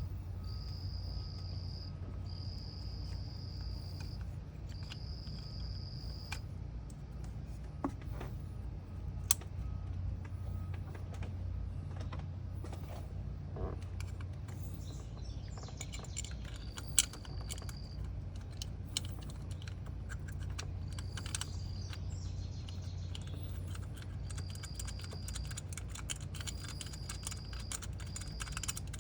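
Scattered clicks and clinks of hand tools and metal parts, a few louder, over a steady low hum, with a high one-second insect trill repeating every couple of seconds.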